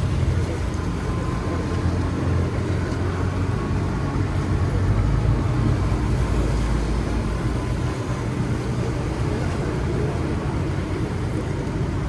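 Boat engine running with a steady low rumble on the canal.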